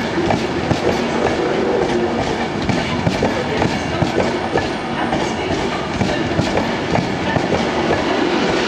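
Passenger train rolling past along the platform: a steady rumble with many irregular clicks and knocks as its wheels pass over rail joints.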